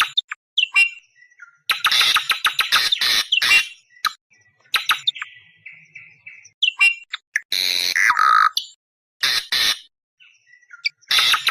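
Awar-awar bird calling: bursts of rapid, harsh chattering notes broken by short pauses, with a louder scratchy squawk that slides down in pitch about eight seconds in. It is a lure recording of the species' calls, as played to attract wild awar-awar birds.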